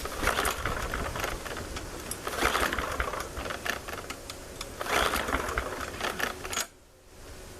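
MTD push mower's small engine being cranked by its recoil pull-starter, three pulls of rapid mechanical rattling, without firing: the carburetor may not hold enough gas left for a cold start. The rattling stops about a second before the end.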